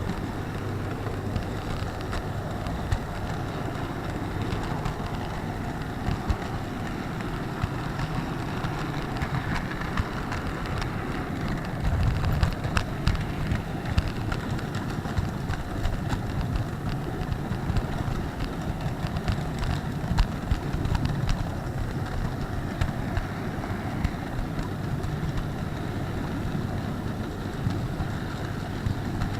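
Steady rumble of an HO-scale model train rolling along its track, picked up by a keychain camera's tiny microphone riding on a wagon, with a few sharp clicks along the way.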